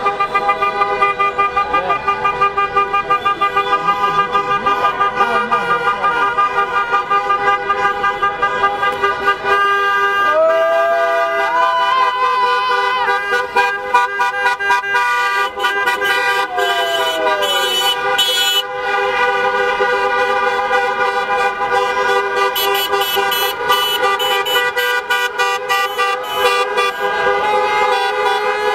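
Many car horns honking together in a dense, continuous din of held and pulsed tones, in celebration of a football title.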